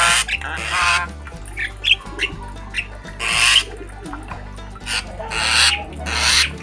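A jalak, a bird of the starling family, giving repeated harsh, raspy squawks about five times, with short whistled chirps between them.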